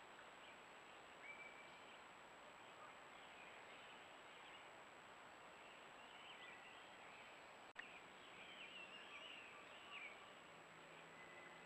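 Faint bird chirps over the steady hiss and thin high whine of a trail camera's microphone, with one sharp click about two-thirds of the way through.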